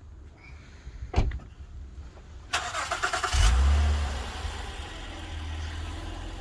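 A sharp click about a second in, then a 2015 Acura RDX's 3.5-litre V6 cranks briefly and starts with a short flare of revs before settling into a steady idle.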